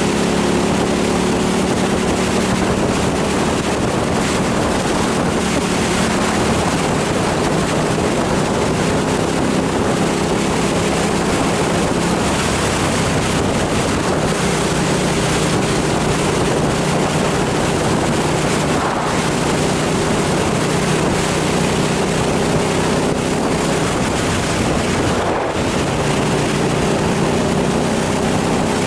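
KTM 990 SMR's V-twin engine running under way, its pitch shifting several times as the throttle and gears change, with heavy wind rush over the microphone.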